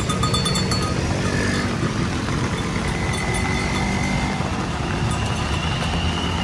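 Steady rain falling, with a loud low rumble beneath it and faint thin whistling tones in the middle and again near the end.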